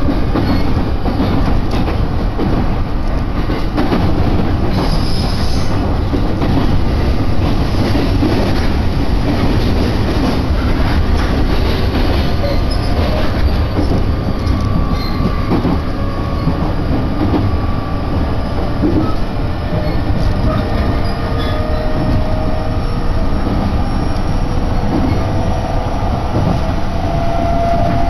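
Cabin noise of a moving Joban Line electric train: a steady rumble of wheels on rail with faint whining tones and an occasional knock over the track.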